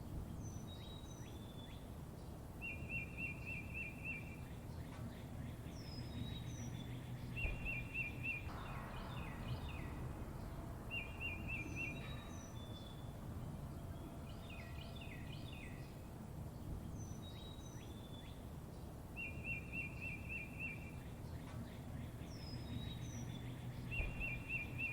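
Songbirds chirping over a steady low outdoor rumble: short buzzy trills, high down-slurred whistles and quick runs of falling notes, the same phrases repeating every few seconds.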